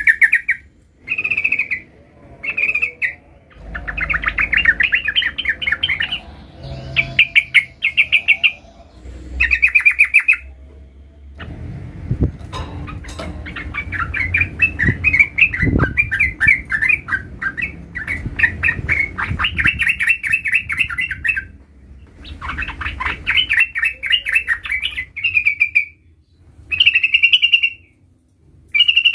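Sooty-headed bulbul song: short bursts of fast, chattering trilled phrases again and again, separated by brief pauses. A low rumble and a few sharp knocks come in around the middle.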